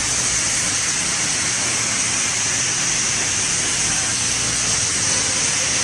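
Steady, unchanging rushing hiss, strongest in the high register, with a low rumble underneath.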